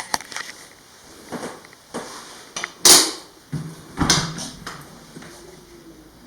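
A series of knocks and clatters in a small room, the loudest about three seconds in and another about a second later.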